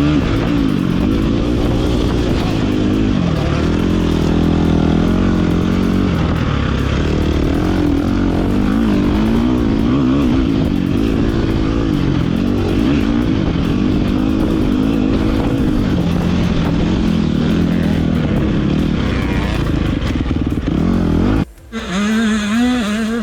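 Motocross dirt bike engine being ridden hard, its pitch rising and falling over and over as the throttle is opened and closed. About three seconds before the end the sound breaks off abruptly and a steadier engine note follows.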